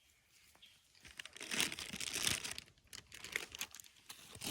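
A plastic packet crinkling and rustling as it is handled, loudest from about one to three seconds in, then a few scattered crackles.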